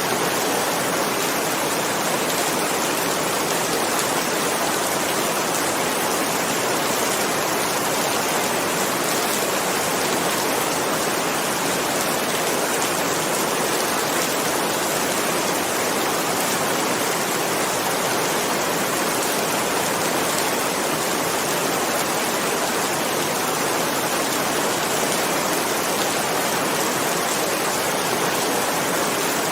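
Steady, dense rainfall: an even hiss of heavy rain, with no thunder and no change in intensity.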